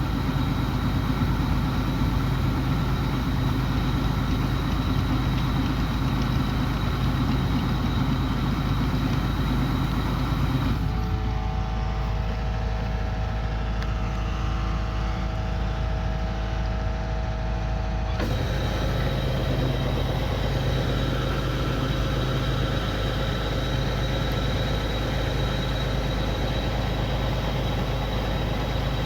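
Kubota combine harvester's engine running steadily. Between about 11 and 18 seconds in the sound turns duller, with a different set of steady tones, then goes back to the earlier sound.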